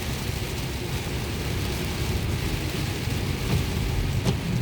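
Steady hiss of rain and wet tyres with a low road-and-engine rumble, heard from inside a moving car during a thunderstorm; a single brief click sounds about four seconds in.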